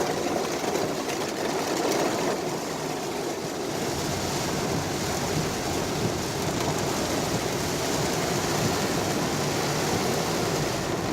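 Steady rain falling on a moving car, mixed with the hiss of tyres on the wet road.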